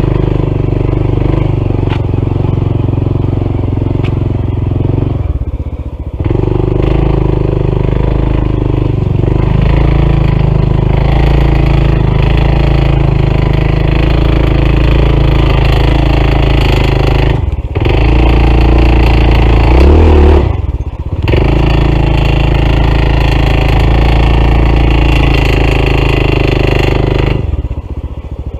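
Honda CT125's single-cylinder engine labouring under load on a steep climb, with a metallic clatter mixed into its note. This is the knocking that comes on when the engine is stressed, later taken for a failing lower-end rod bearing. The engine note dips briefly a few times, revs up once after the middle, and falls away near the end.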